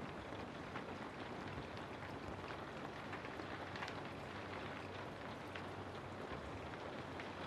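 Steady rain falling, a continuous hiss with many small, close drop ticks scattered through it.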